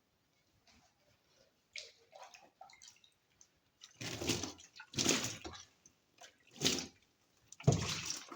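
Water being bailed by hand out of a washing machine tub: small drips and trickles, then four loud sloshing splashes in the second half.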